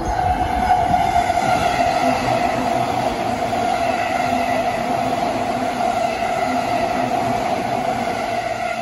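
Orange-striped JR Chuo Line electric commuter train running past a station platform at speed: a steady whine over the rumble of the wheels, easing off near the end as the cars go by.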